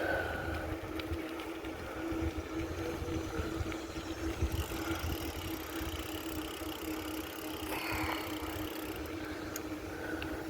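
Wind buffeting the microphone of a moving bicycle, over steady road noise and a constant steady hum.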